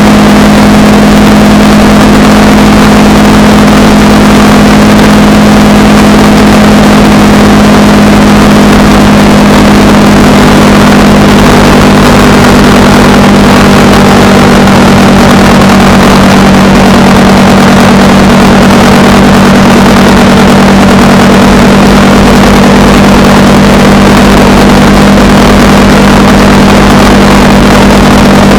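Honda Rebel 300 motorcycle engine running at a steady cruising speed, one unchanging note, under a constant rush of wind noise.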